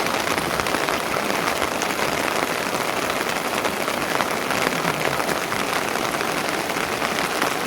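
Steady rain falling, a dense, even patter of drops that holds at one level.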